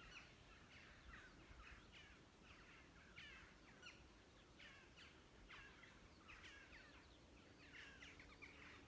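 Faint chiffchaff song: a steady series of short, downward-sweeping notes, about two a second.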